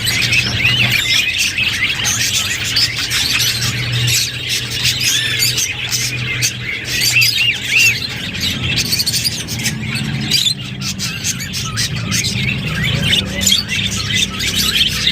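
Budgerigars chattering and warbling, a dense stream of quick chirps, squeaks and clicks, with a low steady hum underneath.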